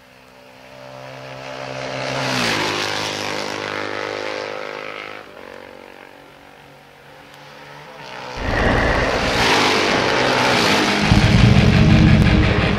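Harley-Davidson motorcycles riding past: one approaches and passes, its engine note dropping in pitch about two seconds in, then fades. From about eight seconds in, louder motorcycle engines go by, loudest near the end.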